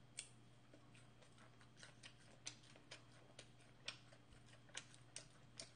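Faint chewing of a crisp clam and green-onion pancake (bajirak pajeon): soft, irregular crunchy clicks, about two a second.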